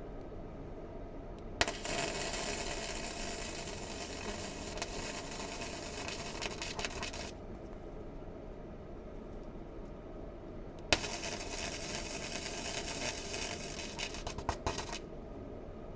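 Welder laying two weld runs on the steel chassis patch: a crackling, sputtering hiss of about five and a half seconds, then after a pause a second run of about four seconds. Each run starts with a sharp crack as the arc strikes and cuts off abruptly.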